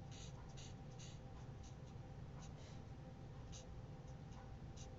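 Faint, irregular short scratches of an alcohol-marker tip stroked across cardstock while colouring in a stamped image.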